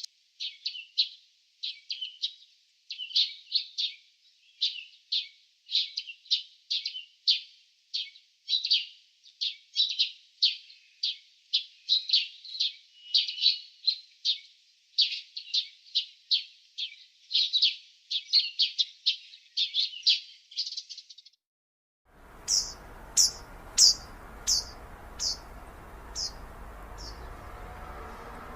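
Small birds chirping in quick clusters of high notes. About 21 seconds in, the chirping stops. After a short gap, a different recording begins with a steady background hiss and a short run of about eight higher chirps that grow fainter.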